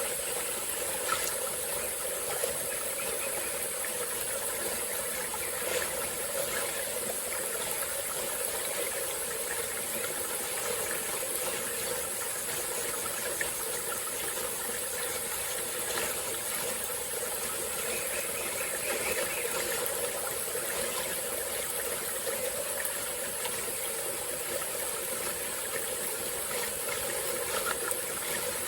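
Small tropical forest stream flowing steadily over rocks, an even rushing of water with a steady high hiss above it and a few faint ticks.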